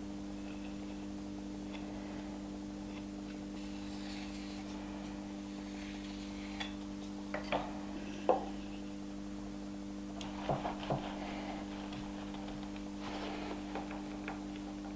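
Light clicks and clinks of small hard objects being handled and set down, in a few short clusters through the middle and latter part, over a steady hum.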